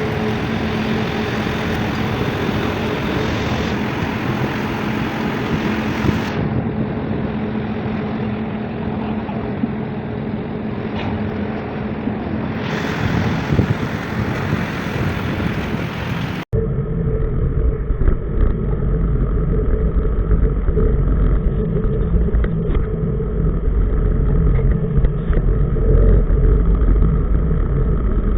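Tugboat diesel engine running steadily under way, with wind and water noise. About sixteen seconds in the sound cuts to a duller take with a much heavier, deeper engine note.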